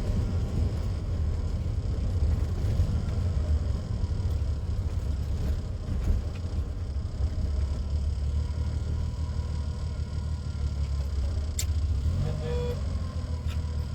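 TVR Taimar's 3.0-litre Ford Essex V6 running steadily with a deep, low rumble. A single sharp click sounds near the end.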